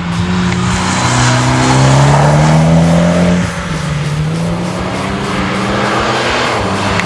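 Mitsubishi Lancer Evo X's turbocharged 2.0-litre four-cylinder engine accelerating through an XForce dump-pipe-back exhaust with a 3-inch metallic cat. The exhaust note rises to its loudest about three seconds in, drops off suddenly, then climbs again.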